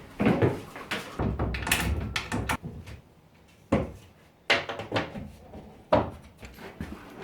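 A string of irregular knocks and clunks, some sharp and some heavier, with quiet gaps between them.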